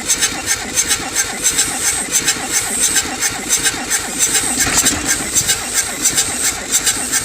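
Mercedes-Benz 300D W126 diesel engine running just after a hard start, with diesel clatter and a regular pulsing beat of about three or four loud knocks a second.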